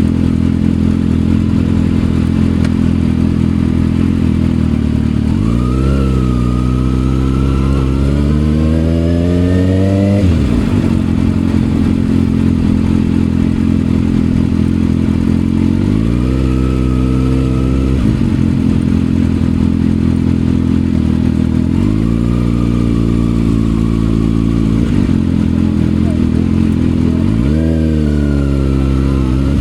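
Kawasaki ZX6R's inline-four running through an M4 aftermarket exhaust while riding, the engine note climbing several times under acceleration and dropping back suddenly, once in a long pull of about five seconds.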